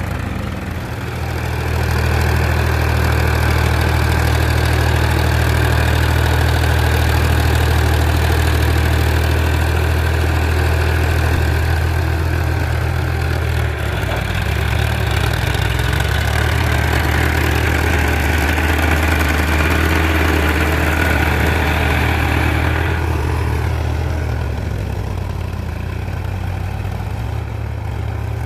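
Powertrac Euro 50 tractor's three-cylinder diesel engine running steadily under load, pulling a cultivator to puddle a rice field. About 23 seconds in the engine eases off and its sound turns quieter and duller.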